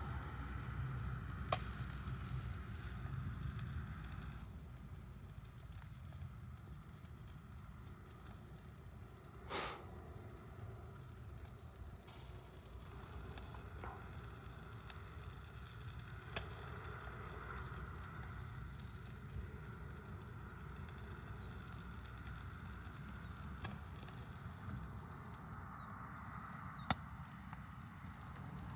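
Campfire burning: a low steady rumble broken by a few sharp pops of burning wood, with one short louder crackle about ten seconds in.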